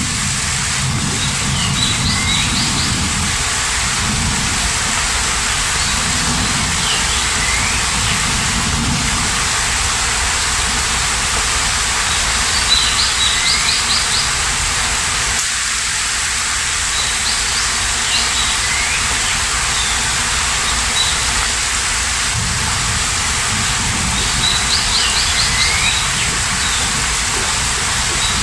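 Steady rain, with a bird repeating the same short chirping phrase every few seconds, each phrase a high note followed by quick falling whistles. A low rumble comes and goes underneath.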